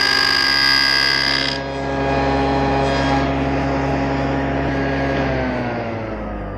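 SawStop table saw cutting a box-joint notch through a board: a loud cutting noise that ends about a second and a half in. The saw then runs freely with a steady hum, and about five seconds in it is switched off and its pitch falls as the blade winds down.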